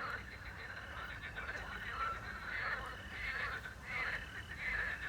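A chorus of frogs croaking over and over, with crickets chirping steadily behind them. A single short whistled note, likely the owl, comes about two seconds in.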